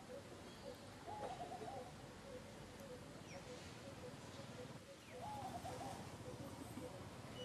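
Birds calling: a steady series of low hooting notes, about two or three a second, with two short wavering calls about one and five seconds in.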